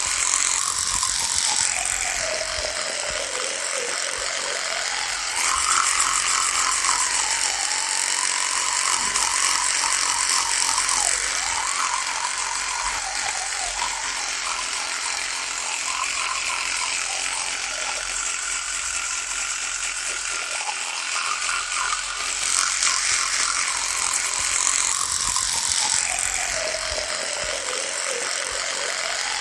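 Electric toothbrush buzzing continuously, its motor pitch sagging and rising again every few seconds, with two louder, brighter stretches about a third of the way in and near the end.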